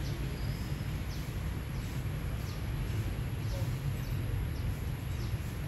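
Outdoor ambience: a steady low rumble, with a small bird chirping short, high, falling notes about once a second.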